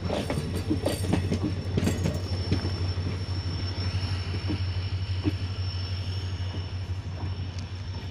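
Passenger train coaches rolling past close by: wheels clattering over the rail joints in the first couple of seconds, then a steady rumble with a thin high whine as the end of the train passes and draws away.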